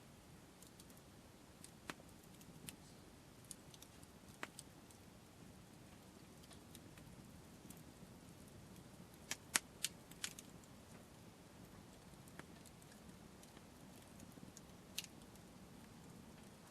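Wood campfire crackling: sparse sharp pops scattered throughout, with a quick cluster of louder ones about nine to ten seconds in.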